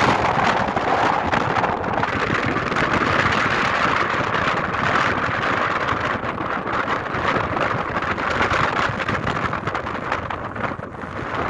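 Strong, gusty wind rushing steadily and buffeting the microphone; it eases a little near the end.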